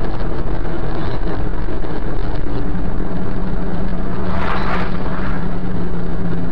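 A car driving, with steady engine and road noise and a low engine drone holding one pitch.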